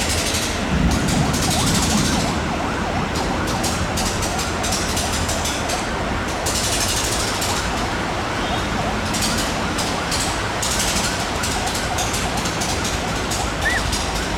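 Long-distance train passing close by: a steady rumble and clatter of wheels on rails, with many short high-pitched wheel squeals throughout.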